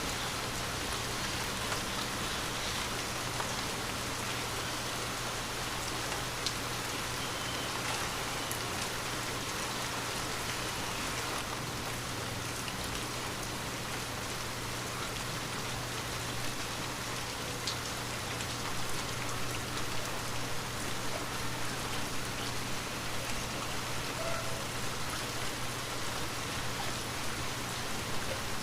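Light rain falling steadily, with scattered individual drops ticking on surfaces.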